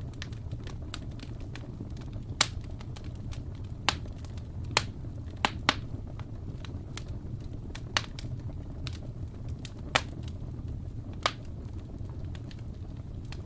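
Wood fire crackling in a fireplace: irregular sharp pops, about eight of them louder than the rest, over a steady low rumble of the flames.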